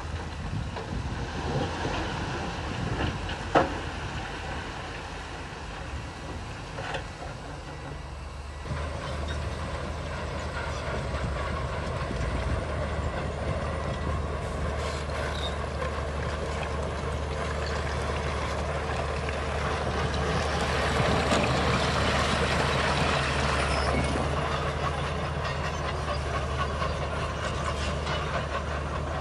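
Bulldozer diesel engine running under load with steel tracks clanking and grinding, growing louder partway through. A single sharp metallic knock comes about three and a half seconds in.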